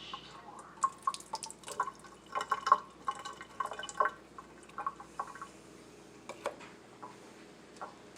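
Water being poured off a bowl of soaked food, with irregular drips and small splashes. The drips come thick at first and thin out after about five seconds.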